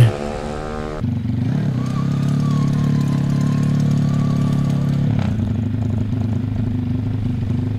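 For the first second a motorcycle engine at higher revs; then a small four-stroke motorcycle engine (under 160 cc, street class) idling steadily, with one brief click a little after the middle.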